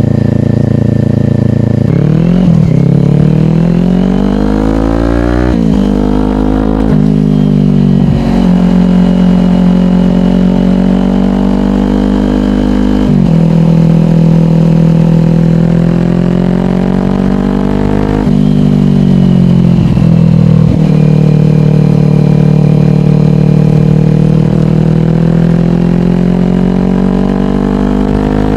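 Kawasaki Ninja 400's parallel-twin engine through a slip-on exhaust, accelerating through the gears: the revs climb and drop sharply at each upshift, several in quick succession a few seconds in. Between shifts it cruises at steady revs, with a slower rise and a couple more shifts later on.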